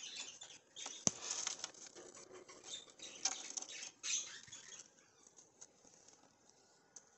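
Budgerigars pecking and nibbling, with small quick ticks and rustles and soft high squeaks. The sounds thin out to a few faint ticks after about five seconds.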